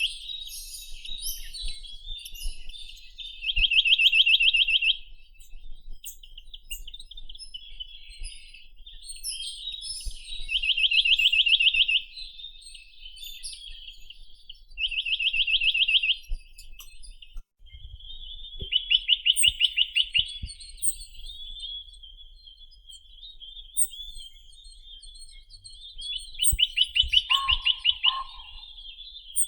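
Chinese nuthatch (Sitta villosa) singing: five fast, even trills, each about a second and a half long and repeated every few seconds, with softer chattering notes between them.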